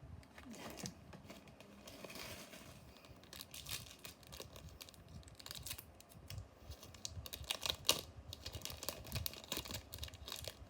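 Trading cards and a foil booster pack wrapper being handled: soft clicks, taps and crinkling, busier in the second half.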